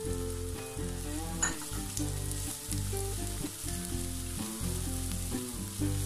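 Diced onion and ginger sizzling in hot oil in a frying pan, stirred with a spatula, with background music of low sustained notes underneath.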